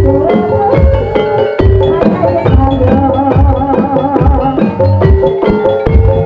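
Javanese gamelan music accompanying an ebeg dance: tuned struck percussion plays a melody over repeated low kendang drum strokes.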